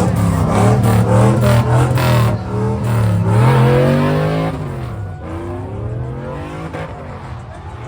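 Car engine revving, its pitch climbing and falling several times, then dropping to a lower, fading sound after about four and a half seconds.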